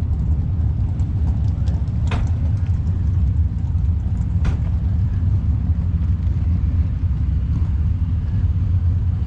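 Steady low rumble of vehicle engines, with two short sharp clicks about two and four and a half seconds in.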